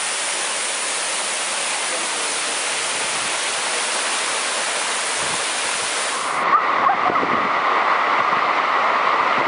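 Waterfall rushing, a steady hiss of falling water and spray. About six and a half seconds in it cuts abruptly to a duller, narrower rush of water.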